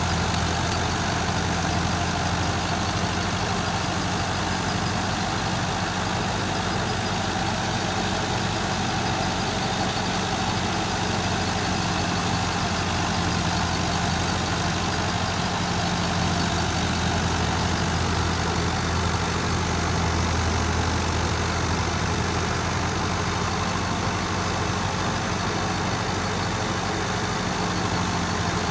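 Tractor engine running steadily at a constant pitch, with a slight swell in its low note about twenty seconds in.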